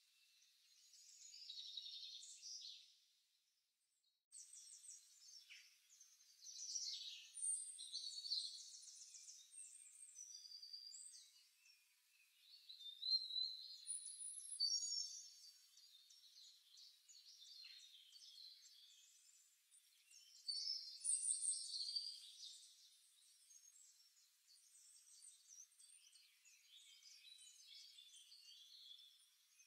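Faint, high-pitched chirping and twittering of small birds, coming and going irregularly with a short gap about four seconds in.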